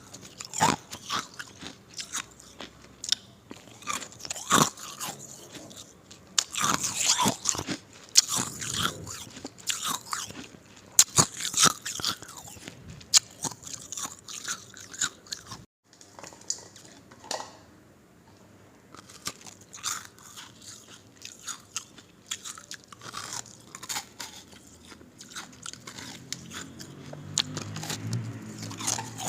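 Ice being bitten and chewed, with crisp, irregular crunching and cracking. There is a short break about halfway through.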